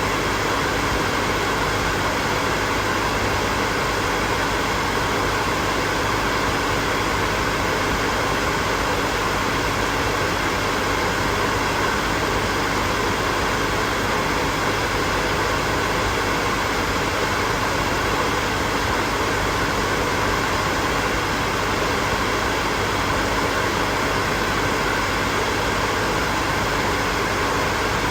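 Hair dryer running steadily: an even rush of blown air with a faint steady motor hum underneath, unchanging throughout.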